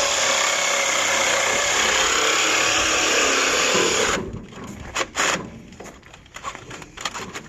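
Cordless reciprocating saw running as it cuts, for about four seconds, then stopping suddenly. A couple of short knocks follow about a second later.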